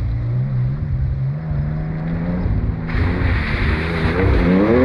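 Classic rally car engine running hard on a stage, its pitch climbing as it accelerates. About three seconds in, a sudden loud rush of noise joins the engine, and the engine rises in pitch again near the end.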